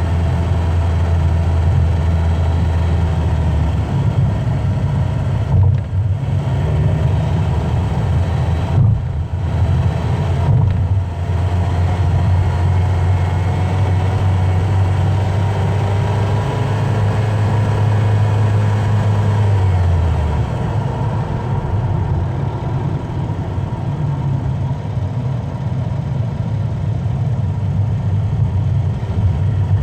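A car driving at speed, with steady engine and road noise. A low rumble runs throughout, and the engine note drifts slowly up and down. The low rumble drops away about two-thirds of the way in.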